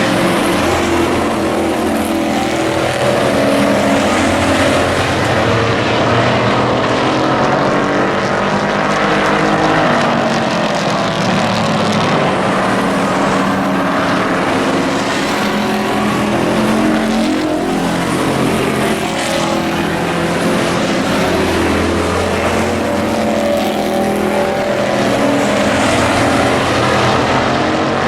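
A field of hobby-class race trucks running laps, several engines sounding at once and rising and falling in pitch as they pass.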